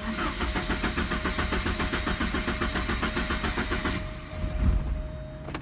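1988 Porsche 944's four-cylinder engine being cranked by the starter with an even, rhythmic beat for about four seconds without catching, then the cranking stops and a low thump follows. This is a no-start: the car will not fire even with the DME relay jumpered.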